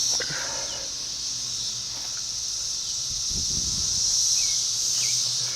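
Chorus of Brood X periodical cicadas (17-year cicadas): a steady, high, hissing buzz from many insects at once, swelling slightly in the second half. A brief low rumble comes a little past the middle.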